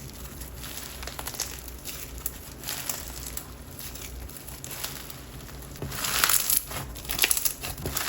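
Slime being squished, folded and stretched by hand, giving a crinkly, crackling texture sound that grows louder and busier over the last two seconds.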